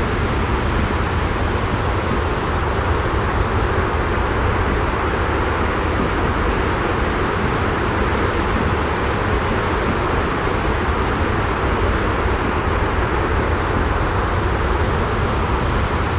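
Steady white-noise ambience: an even rushing noise over a low rumble, unchanging throughout, with no separate drops, clicks or other events.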